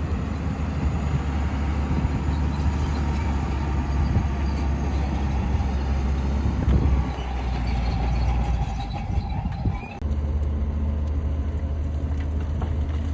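Heavy diesel earthmoving machinery running under steady load, a deep engine drone. The sound drops out for a moment about ten seconds in and picks up again.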